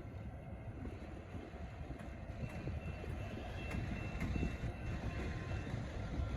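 Diesel locomotive running light with no cars, a steady low rumble of engine and wheels on the rails. A faint, thin high tone comes in partway through and fades out near the end.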